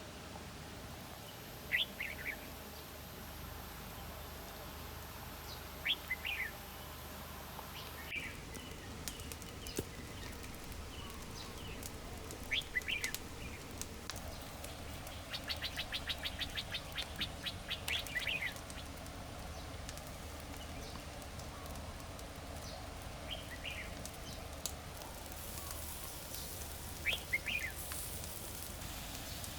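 Birds calling: a short chirp of a few quick notes every four to five seconds, and midway a rapid run of about ten notes a second for about three seconds, over steady background noise.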